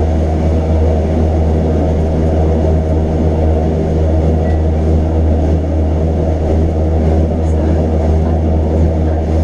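Train running, a loud steady low hum and drone with no change in pace.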